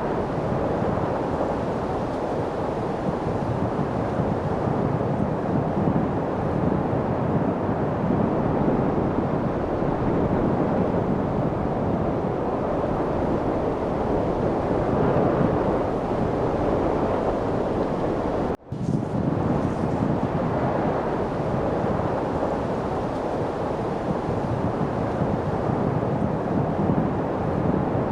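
Steady rushing wind, an even noise without rhythm, which drops out for a split second about two-thirds of the way in.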